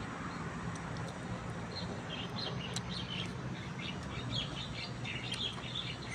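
Small birds chirping in quick, irregular short calls that start a couple of seconds in, over a steady low hum.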